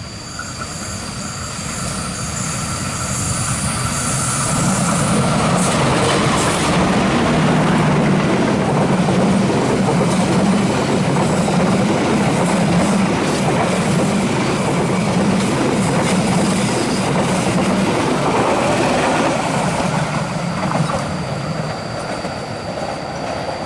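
Indonesian passenger train passing close by: a loud rumble and rush of wheels on rail that builds over the first few seconds, holds with a rhythmic clatter over the rail joints, then fades toward the end.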